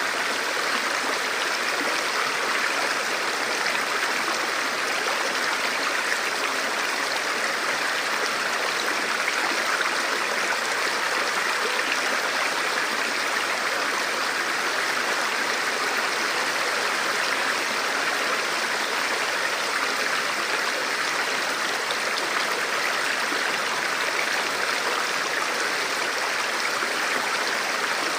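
Forest river or stream flowing steadily, a constant rushing of water over rocks.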